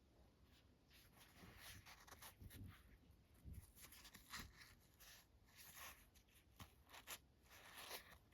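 Faint, irregular rustling and scraping from shoes and their packaging being handled by hand, with a few soft low bumps.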